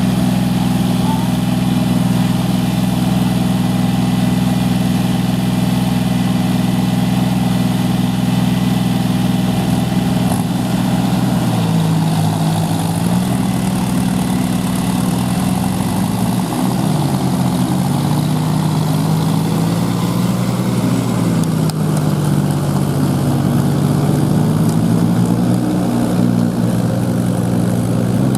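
Diesel tractor engine running steadily, then its speed dipping and rising several times from about halfway through.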